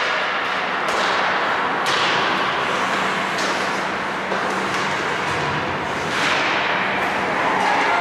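Ice skate blades scraping and carving on the rink, several sharp hissing scrapes that fade out, about a second or more apart, over a steady low arena hum.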